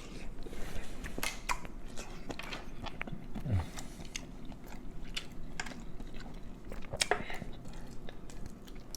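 Close-up eating sounds: irregular wet clicks and smacks of chewing, with no steady rhythm.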